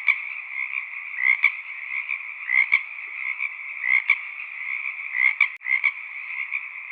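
Frog chorus: many frogs calling together in a dense, steady din, with one louder call repeating about once every second and a quarter.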